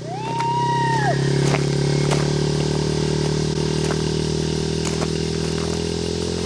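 Yamaha TT-R50 mini bike's small four-stroke single running steadily in first gear under light, even throttle as it rides along, swelling in the first half second and then holding. A short whistle-like tone sounds in the first second, with a few faint clicks.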